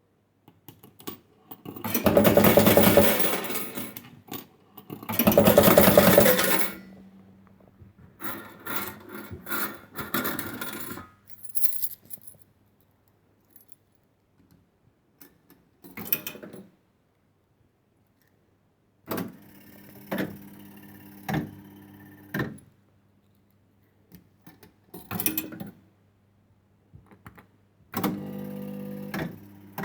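1970s Funworld Stars & Stripes penny-play fruit machine in use: two loud spells of metallic clatter, typical of coins, then shorter runs of clicks and rattles from its mechanism, over a steady low electrical hum.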